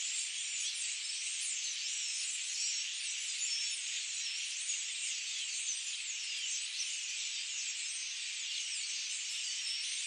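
Dense, steady chorus of many birds chirping at once, all high-pitched with no low sound beneath it.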